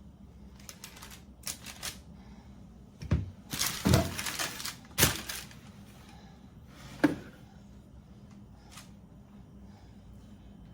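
Spoon knocking and scraping against a bowl as thickening praline candy mixture is spooned out: a string of clicks and knocks, loudest about three to five seconds in, with a single sharp click about seven seconds in.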